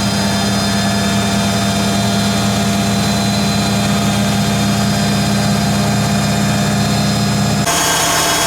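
1980 Hoover Keymatic A3112 washing machine in the 800 rpm phase of its final spin, the drum and motor running with a steady hum and whine. Near the end the sound changes abruptly, the low hum dropping away.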